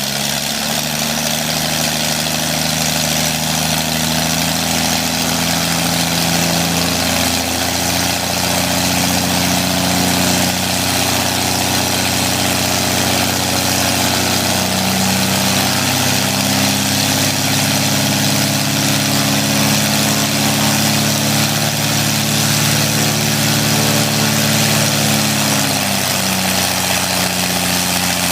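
Corvair air-cooled flat-six engine of a Pietenpol homebuilt aircraft running on its first start, its speed stepping up and down several times. The ignition timing sounds close but a little late.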